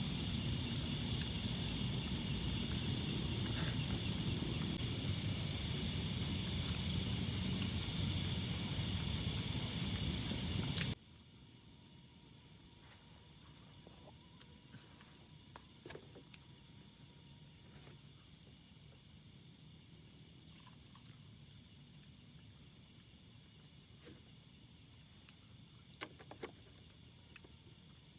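Insect chorus, a steady high pulsing trill typical of crickets, over a rushing background noise. The rushing noise cuts off abruptly about eleven seconds in, leaving the insect chorus fainter with a few soft clicks.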